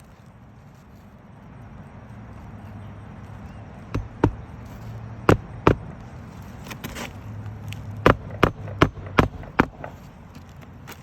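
Hammer blows on an asphalt-shingle roof during a shingle repair: two pairs of sharp strikes about four and five seconds in, then five strikes at about two and a half a second.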